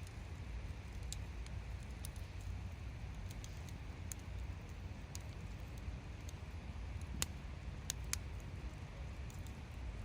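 Hardwood campfire crackling: scattered sharp pops and snaps, the loudest about seven and eight seconds in, over a low steady rumble.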